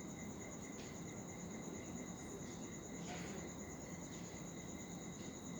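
A steady, high-pitched pulsing trill with a few faint, short budgerigar chirps.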